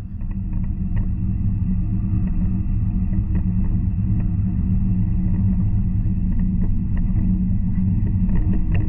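Steady low rumble of an N700 Series Shinkansen running at speed, heard from inside the passenger car, with faint scattered ticks and rattles.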